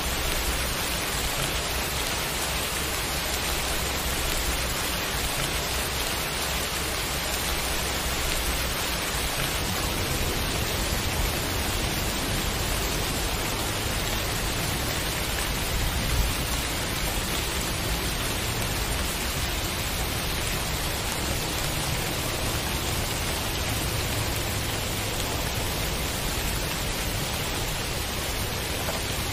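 Steady rain falling on wet pavement and hedges, an even dense hiss. A low rumble comes in underneath about a third of the way through.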